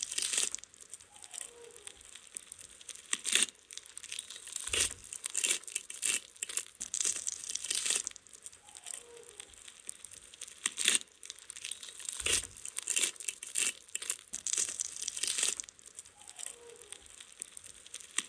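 Fire burning in a barbecue grill, crackling and hissing with scattered sharper pops.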